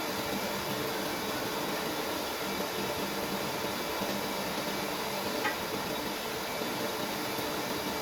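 Steady hum and hiss of a 500 L/h reverse-osmosis water filter running on test, its pump and water flow unchanging, with one small click about five and a half seconds in.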